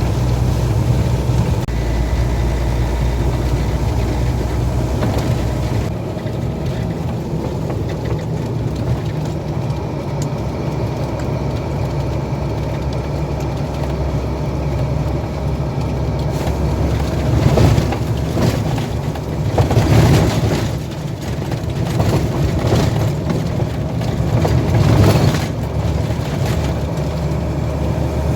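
Heavy truck's engine running steadily while driving, with its low note changing about six seconds in. Several louder swells of noise come in the second half.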